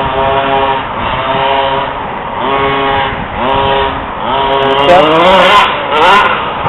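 Small two-stroke petrol engine of an FG 4WD RC monster truck revving in repeated blips, the pitch rising and holding about once a second, with a few quicker sweeps near the end.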